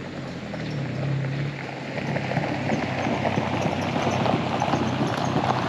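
Jeep Wrangler driving slowly on a gravel road: its engine runs low and steady, and its tyres crunch and pop over the gravel, growing gradually louder.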